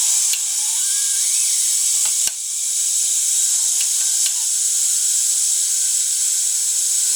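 Steady hiss of steam escaping under pressure from the boiler fittings of a small solid-fuel-fired live-steam locomotive, an MSS side tank kit, with a single click about two seconds in. The whistle valve is leaking steam.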